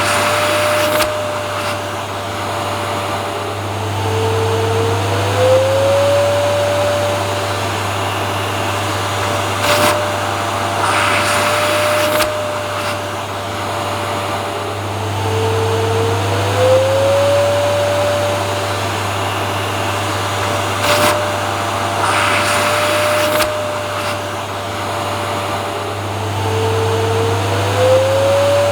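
Vacuum cleaner motor running steadily with a strong low hum. About every eleven seconds its whine drops in pitch and slides back up, and short louder bursts of rushing air come in between.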